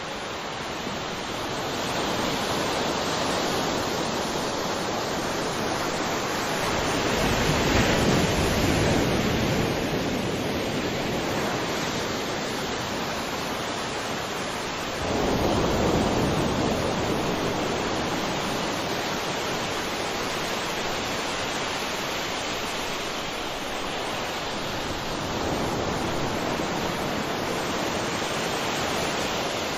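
Sea waves washing onto a shore: a steady rush of surf that swells with a breaking wave about 7 seconds in, again at 15 seconds, and more gently near 25 seconds.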